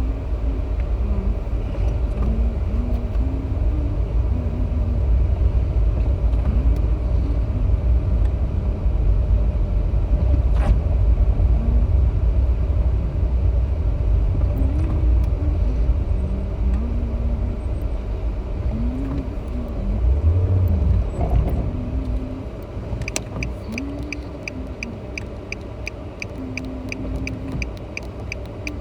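Road and engine noise inside a moving car: a steady low rumble that eases off somewhat near the end, when a rhythmic ticking joins in.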